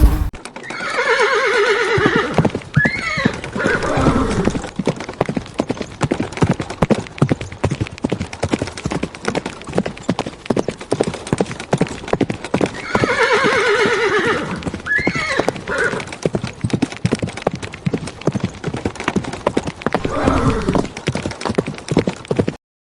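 A horse neighing, one long call about a second in and another about halfway through, with a shorter call near the end, over rapid hoofbeats that go on the whole time.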